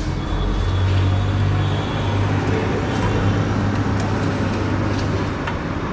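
Road traffic noise, with a motor vehicle's engine running close by as a steady low hum that stops near the end.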